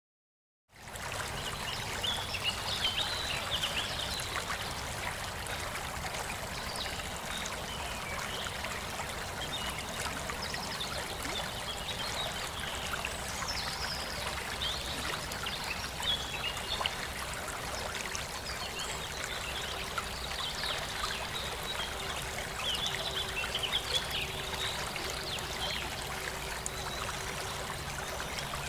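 Waterfall water splashing and running steadily, coming in suddenly just under a second in.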